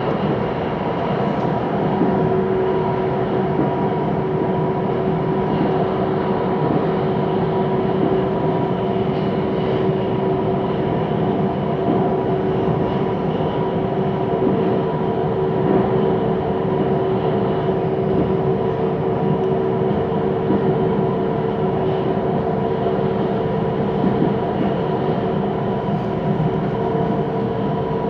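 Cabin noise of a Siemens Inspiro metro train running between stations: steady rolling and running noise with several held motor tones, one more tone joining about halfway through.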